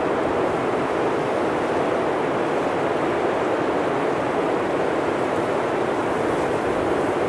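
Blizzard wind blowing steadily: an even rushing noise without gusts, breaks or separate sounds.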